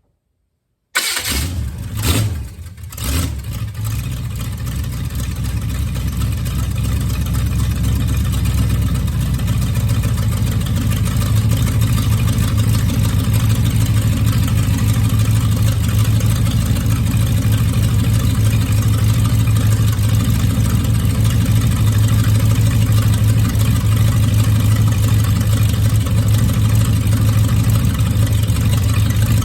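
A V8 engine, freshly fitted with new spark plugs and plug wires, starts up about a second in, surges a couple of times, then settles into a steady, loud idle with its idle speed turned down.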